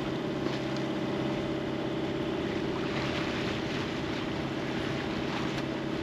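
A sailboat's engine running steadily while under way, with a hiss of wind and water around the boat.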